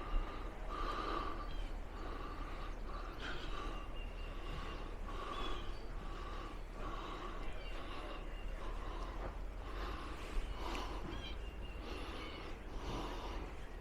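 Soft, steady footsteps of a person walking, about one step every three-quarters of a second.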